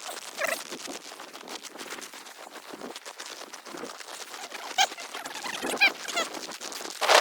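Small birds chirping in a few short quick bursts, over a steady light crunching and pattering, probably footsteps in snow. Just before the end, a louder rushing noise sets in.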